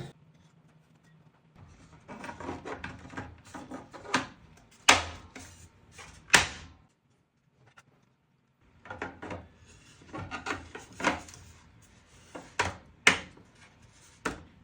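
Rigid 3D-printed plastic parts being handled and fitted together: rubbing and scraping, with a few sharp clicks and a short quiet gap near the middle.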